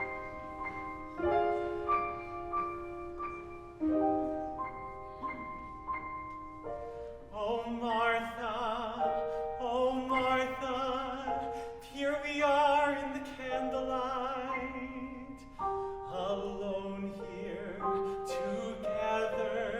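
Piano introduction to a show tune, then a singer comes in over the piano about seven seconds in, singing with a pronounced vibrato.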